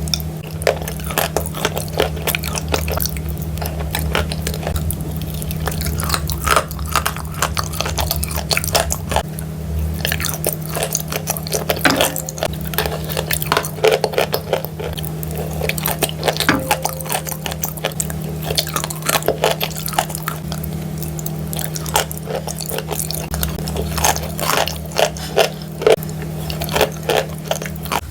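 Pieces of chalk coated in clay paste being bitten and chewed close to the microphone, giving a dense, irregular run of crisp crunches and crackles over a steady low hum.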